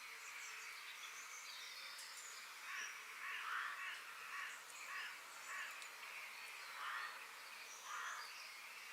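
Forest ambience with birds calling: from about two and a half seconds in, a run of short rasping calls comes roughly once a second, with a few thin high chirps over a faint background hiss.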